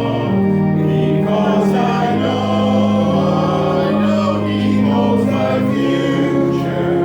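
A group of voices singing a slow hymn in held chords.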